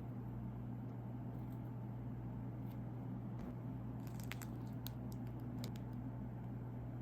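A few small, crisp clicks and crinkles from handling or eating snacks, mostly between about four and six seconds in, over a steady low electrical hum.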